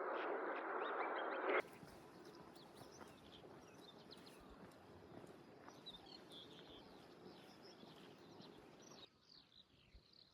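Small birds chirping over quiet open-air ambience. A steady hiss under them stops abruptly about a second and a half in, leaving faint, scattered chirps.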